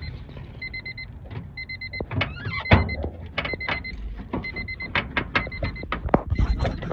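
An electronic warning beep repeating about once a second, each beep a short fluttering tone, over irregular clicks and knocks of hand work on the car door's handle and rod.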